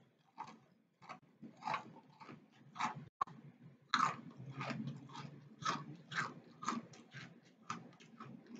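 Crunchy chewing heard close up through an earphone's inline microphone held at the mouth: sharp crunches at about two a second, with wet mouth sounds between them.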